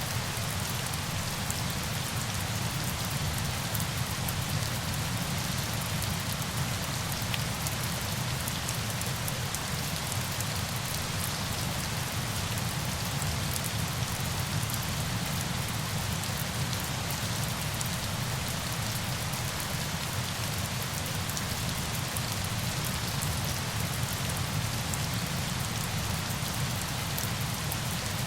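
Steady, even noise of falling water, with a fine patter of drops throughout and no change in level.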